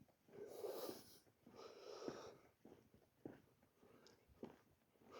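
Faint, heavy breathing of a man out of breath from walking, a breath roughly every second and a half.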